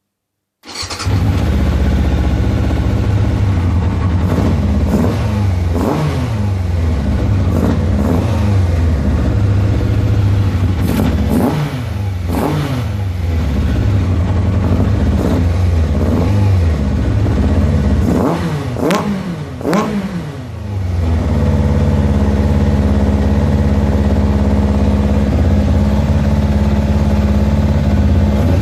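Yamaha FZR600's inline-four engine, through an open exhaust, starting about half a second in and being blipped again and again, each rev rising and falling back. Near the end it settles to a steady idle. The carburettors have just been cleaned and adjusted.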